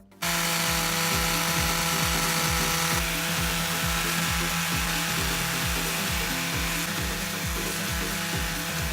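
Harbor Freight orbital sander running steadily against an oak door, sanding with 120-grit paper. It comes in suddenly just after the start.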